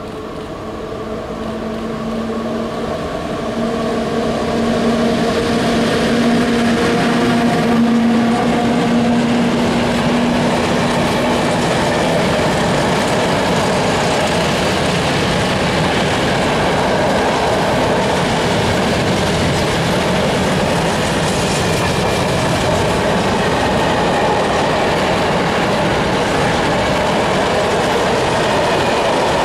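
PKP Cargo ET22 electric freight locomotive approaching and passing with a steady hum that ends about twelve seconds in. A long train of open freight wagons then rolls steadily past on the rails.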